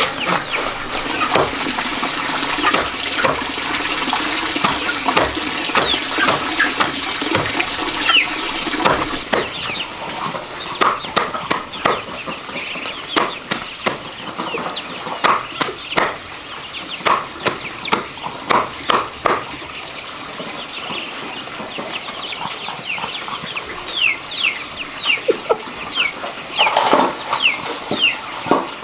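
Chickens clucking, with many short, high, falling peeps and frequent sharp clicks. A hiss stops about nine seconds in.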